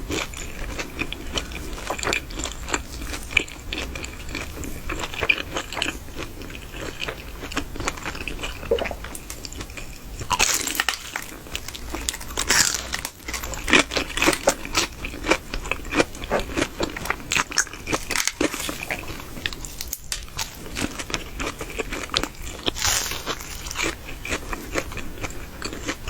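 Close-miked eating of crispy fried chicken: crunchy bites and chewing, with a louder crunch now and then.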